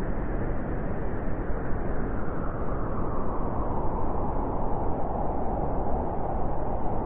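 Cold winter wind blowing steadily: an even rushing noise with a strong low rumble.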